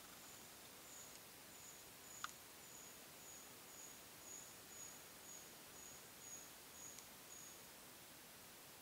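A faint series of short, thin, very high whistled notes, about two a second, from a small bird, stopping a little before the end. A single sharp click comes a little over two seconds in.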